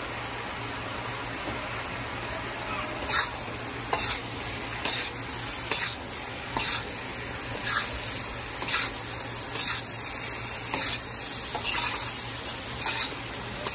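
Pepper shrimp with freshly added sweet pepper and carrots sizzling in hot oil in a pot. A spoon stirs and scrapes the pot about once a second from about three seconds in.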